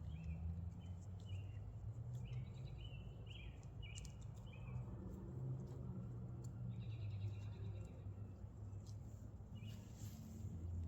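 Small birds chirping faintly in quick short notes, then a brief buzzy trill, over a low steady hum.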